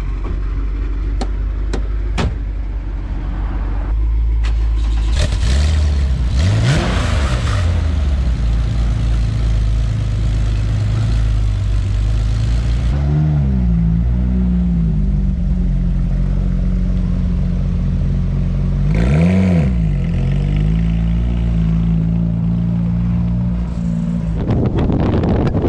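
Car engine running under way, its revs rising and dropping a few times as it accelerates and changes gear.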